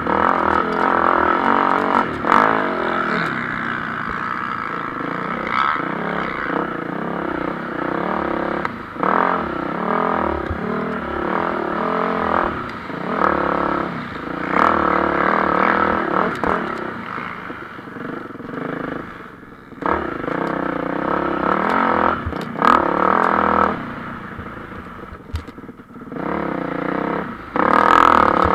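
Several MX1-class motocross bikes racing, their engines revving up and down at overlapping pitches. The sound swells and fades as bikes come past, dipping twice before rising again near the end.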